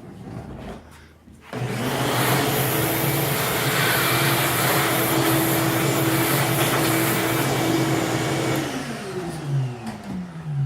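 Electric bench grinder switched on about a second and a half in, running loud and steady with a whirring hiss. Near the end it is switched off and its pitch falls as the wheel spins down.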